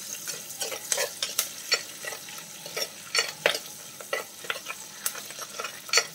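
Ginger, garlic, green chillies and curry leaves sizzling as they sauté in hot coconut oil in a clay pot. A steel spatula stirs them, scraping and knocking against the pot at irregular intervals.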